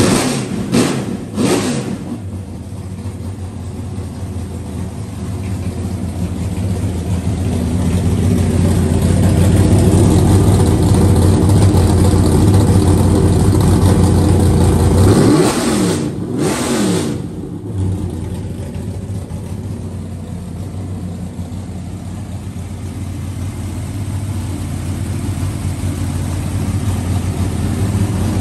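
The V8 of a Chevrolet Monte Carlo NASCAR stock car running just after start-up. It is blipped a few times in the first couple of seconds, then settles into a steady run that builds in level. About fifteen seconds in it is revved two or three times, the pitch rising and falling, before it drops back to idle.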